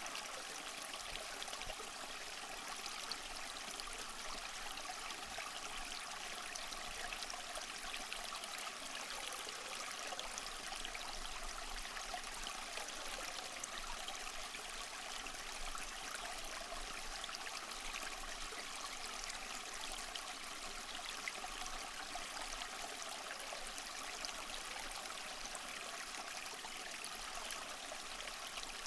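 Small waterfall splashing and trickling steadily over mossy rocks: an even rush of falling water with fine splashing and no breaks.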